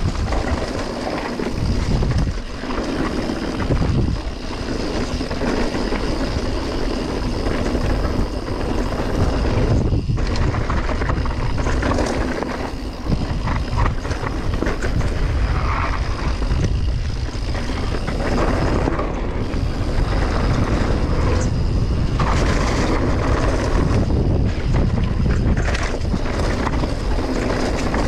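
Mountain bike descending a dirt trail: wind buffeting the microphone and tyres rolling over rough ground, with frequent clatters and knocks from the bike over bumps.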